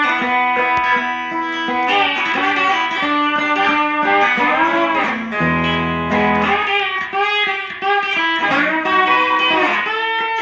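Instrumental break in a song: electric guitar playing a melodic lead with bending notes over a steady backing.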